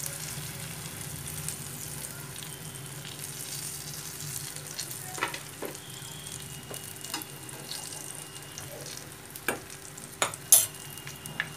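Spice-stuffed green chillies sizzling steadily as they deep-fry in oil, nearly done. Metal spoons scrape and clink against the pan a few times as the chillies are turned and lifted out, with the loudest clinks near the end.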